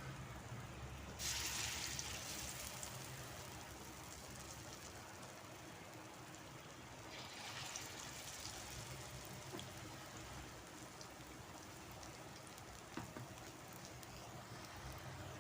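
Potato-and-flour snack frying in hot oil, a faint steady sizzle that swells suddenly about a second in and again around seven seconds in.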